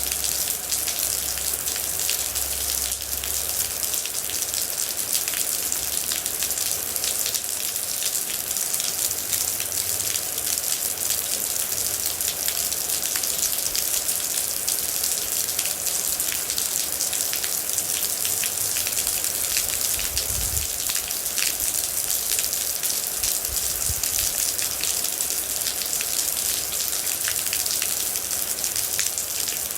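Steady heavy rain with many individual drops pattering on a surface.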